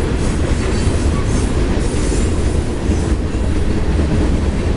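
Freight train rolling past, a steady rumble of its wheels on the rails.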